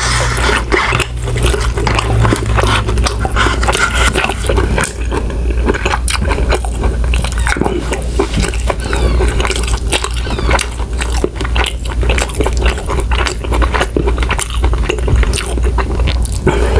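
Close-miked chewing of a mouthful of instant ramen noodles, a steady run of wet mouth clicks and smacks.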